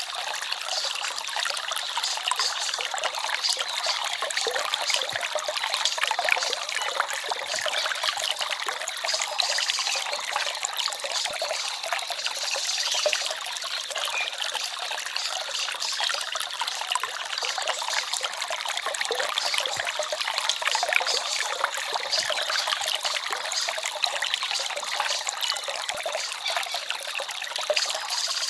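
A small stream babbling and trickling steadily: a light, splashy flow of water with no deep rumble.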